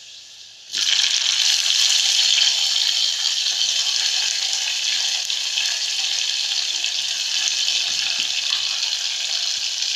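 Chopped tomatoes hitting the hot oil of a garlic and curry-leaf tempering in an aluminium pot: a sizzle that starts suddenly about a second in and carries on steadily.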